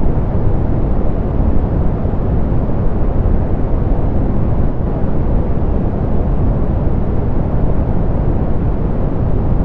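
Steady, softened pink noise, a continuous even hiss weighted heavily toward the low end, with little above a few thousand hertz.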